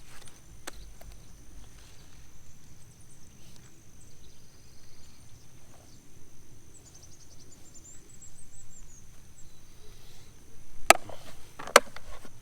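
Quiet outdoor ambience with a steady high insect-like hum and a short chirping bird trill about seven seconds in, broken by two sharp knocks less than a second apart near the end.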